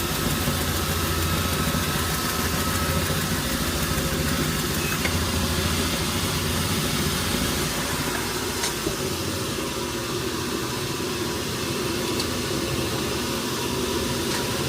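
An engine running steadily at idle, its low hum easing somewhat about halfway through, with a few faint clicks over it.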